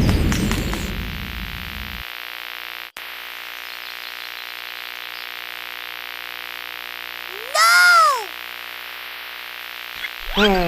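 A loud hit dies away over the first two seconds, leaving a steady electrical-sounding hum with hiss. About eight seconds in there is one short cry that rises and falls in pitch.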